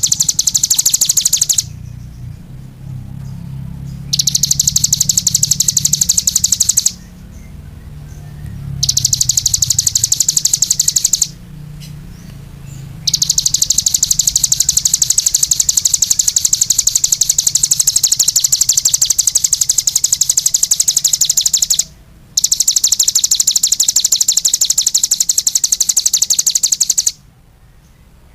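Small songbird singing long, very rapid high-pitched trills in phrases several seconds long, separated by short pauses. A faint low hum sits underneath during the first phrases.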